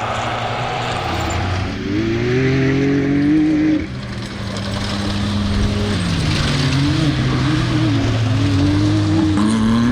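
Off-road racing vehicle's engine running hard, its pitch climbing and holding, then falling back about four and six seconds in and rising again near the end as the throttle comes on and off.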